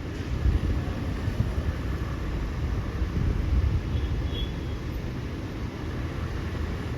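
A motor vehicle running, heard as a low, uneven rumble.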